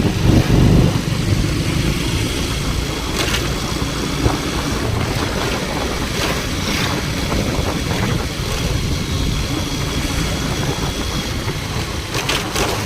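Steady engine and road noise from a moving vehicle, with a few brief clicks or knocks, about three seconds in and again around six to seven seconds in.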